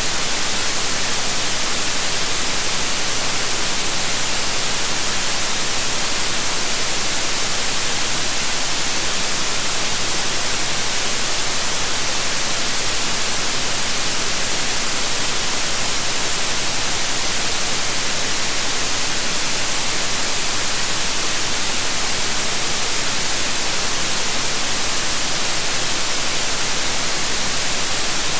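Steady white noise: an even, unbroken hiss that is brightest in the treble.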